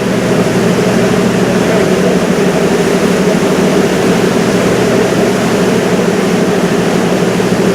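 A river cruise boat's engine drones steadily and evenly, a low hum with several held tones under a wash of noise.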